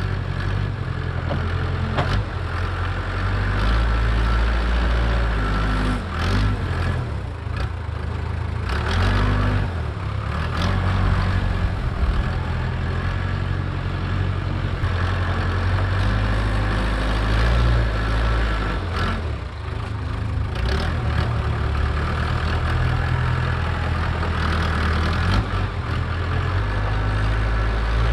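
Case 580K backhoe's diesel engine running close by, its speed rising and falling in steps as the machine works, with a few sharp knocks.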